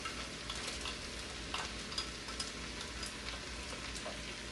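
Cooked purple rice frying in hot coconut oil in a pot: a steady, quiet sizzle with scattered small crackles.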